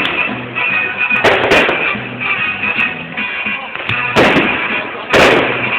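Fireworks going off: four loud bangs, two close together early and two later, the last the loudest, over music playing.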